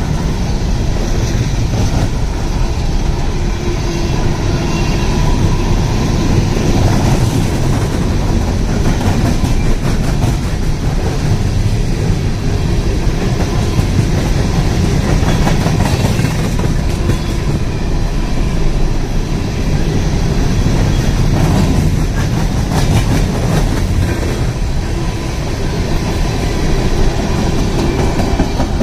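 Open-top coal hopper cars of a freight train rolling past, a steady rumble of steel wheels on rail with a continuous patter of clicks as the wheels cross the rail.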